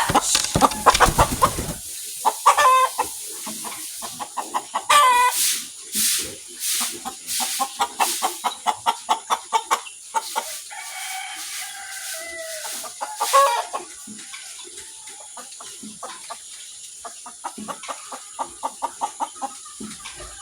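Chickens clucking in quick runs of short calls, with a few longer calls that sound like a rooster crowing. A low rumble runs through the first two seconds.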